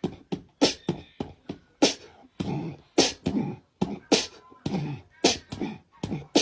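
A rhythmic run of sharp percussive clicks and thumps, about three a second, with short low hums after some of them, like a vocal or drum beat.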